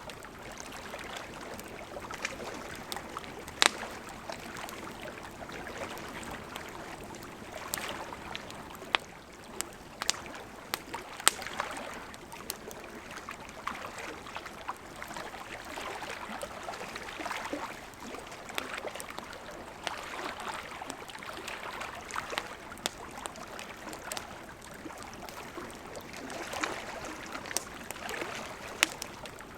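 Campfire crackling, with irregular sharp pops from the burning wood, over a soft, swelling wash of lake water lapping.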